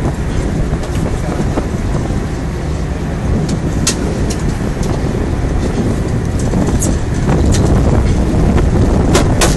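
Fishing boat's engine running with steady wind and water rush. Near the end a rapid series of sharp knocks starts.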